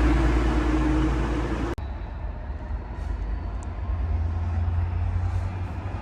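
A train running loudly with a steady low tone, cut off abruptly less than two seconds in and replaced by a quieter, steady low rumble.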